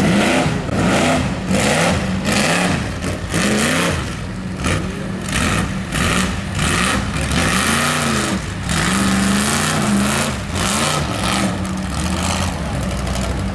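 Mud truck's engine revving hard over and over, its pitch rising and falling in quick surges about once a second.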